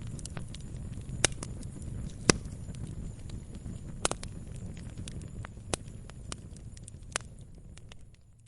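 Wood fire crackling in a fireplace: a steady low rumble of flames with scattered sharp pops, about five of them louder than the rest. The sound fades out near the end.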